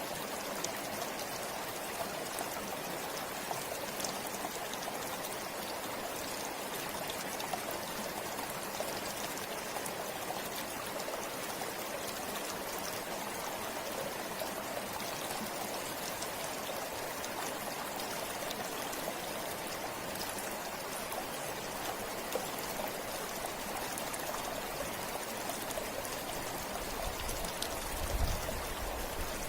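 River water flowing steadily over rocks, a continuous rushing with small splashes and trickles through it. A brief low rumble about two seconds before the end is the loudest moment.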